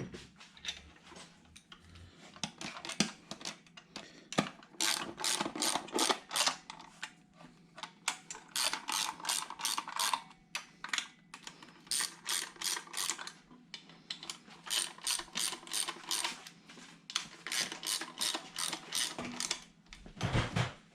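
A hand ratchet wrench tightening bolts, clicking in quick runs of about five or six clicks a second with short pauses as it moves from bolt to bolt.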